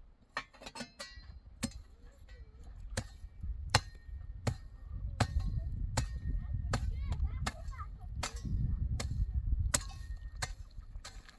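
A hand tool striking hard material in a steady rhythm, about one blow every three-quarters of a second, each with a short metallic clang. A low rumble swells under the blows through the middle stretch.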